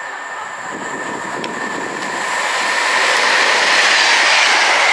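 A train approaching along the line, its wheel and rail noise growing steadily louder.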